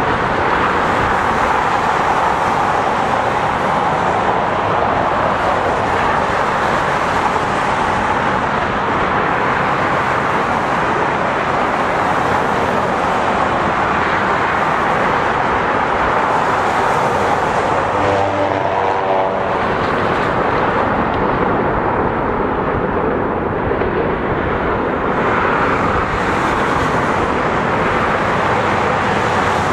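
Steady rushing noise of a long freight train's cars rolling past, mixed with river rapids below. About 18 seconds in, a brief pitched tone sounds over it.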